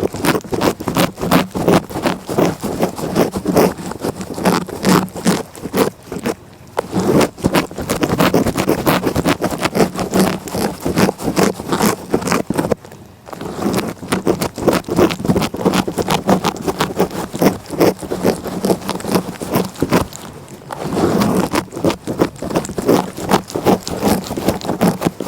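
A cat's rough tongue licking close against the microphone, a fast run of short rasping strokes several a second, broken by three brief pauses.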